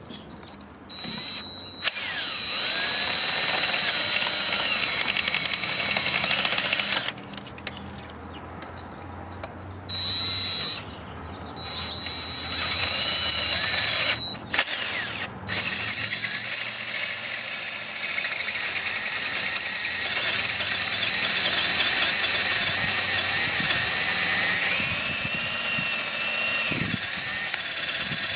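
Power drill running in several starts and stops, then running on steadily from about halfway, with a steady high whine over the noise. It is being worked on a stubborn last bolt on the cylinder head.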